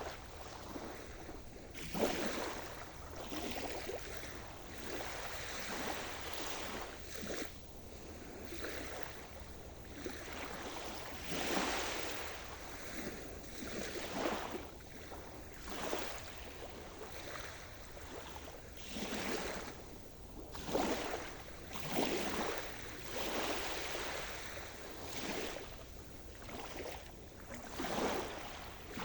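Sea surf: waves breaking and washing up the shore, the hiss of water rising and falling in surges every few seconds.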